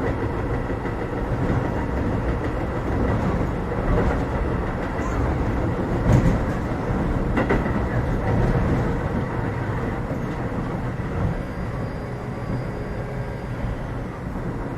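Cabin running sound of a Keio 7000 series electric train at speed: a steady rumble of wheels on rail, with a faint steady whine. Two sharper clacks come about six and seven and a half seconds in.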